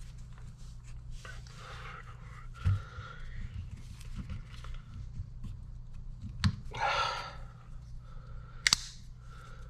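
Hand work on hydraulic cylinder parts: a few dull knocks, a brief rustle and a sharp double click near the end, over a steady low hum.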